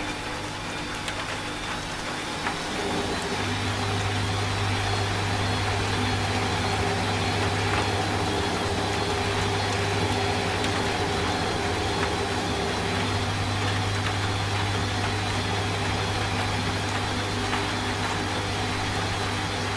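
Washing machine running, its motor giving a steady low hum that grows stronger about three seconds in, over an even hiss of rain.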